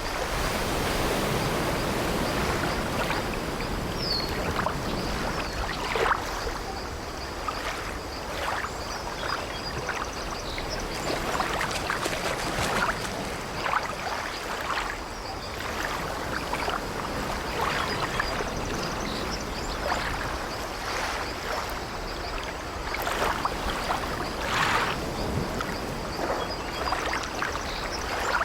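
Sea waves washing steadily around an old wooden ship, with scattered short creaks and knocks of its timbers, one a brief rising squeak about four seconds in.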